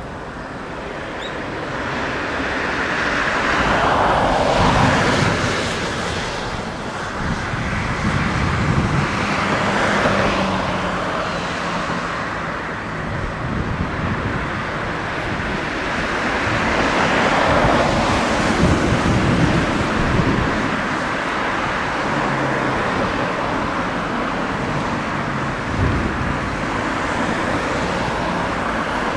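Kawasaki C-2 transport jet's twin turbofan engines, a broad rushing jet noise that swells and eases several times, with gusty wind buffeting the microphone.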